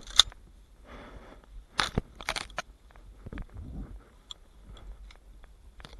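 Crunching, rustling handling noises with scattered sharp clicks, the loudest crack just after the start and a cluster around two seconds in.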